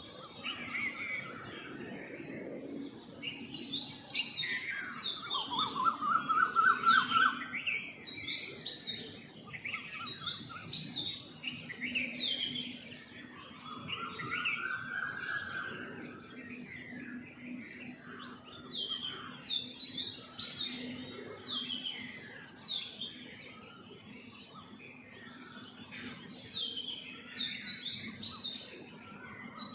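Many small birds chirping and twittering at once, with quick falling chirps overlapping throughout. A lower rising call sounds about five seconds in, again near the middle, and once more at the end.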